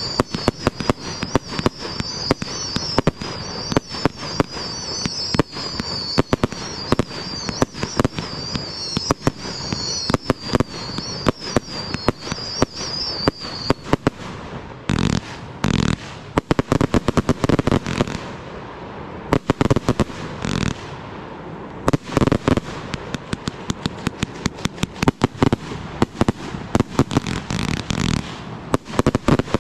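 A 260-shot consumer firework cake firing shot after shot in quick succession, its shells popping and crackling overhead. A wavering high whistle runs through the first half. From about halfway there are fewer but heavier booms with short gaps between them.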